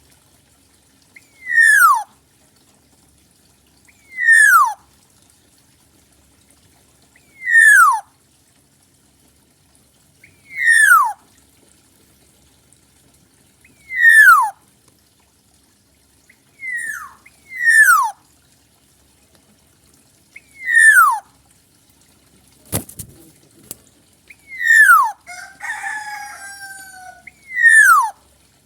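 Black-naped oriole calling: a loud falling note, repeated about every three seconds, with two in quick succession near the middle. A sharp knock comes about three-quarters through, followed briefly by a different warbling bird sound.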